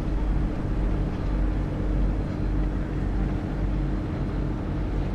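Steady drone of a sand barge's diesel engine running on the river, with a held hum over a low rumble.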